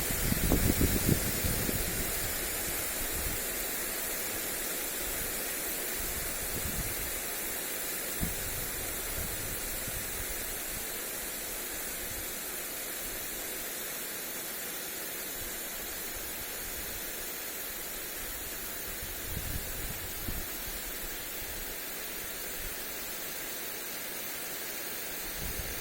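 Lawn sprinkler spraying water onto grass, a steady hiss. Wind buffets the microphone in low gusts, strongest at the start and again now and then.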